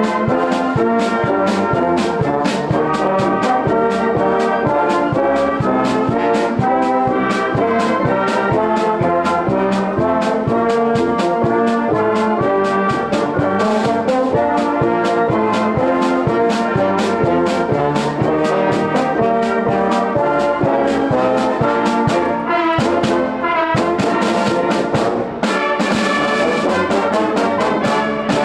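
Brass band music, with trombones and trumpets over a steady beat.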